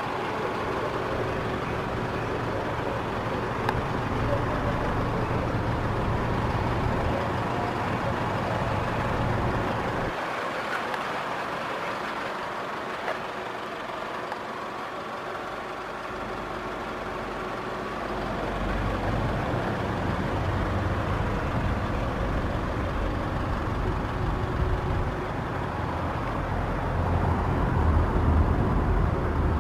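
Steady motor-vehicle noise with a low rumble. The rumble drops away for several seconds about ten seconds in and comes back, strongest near the end.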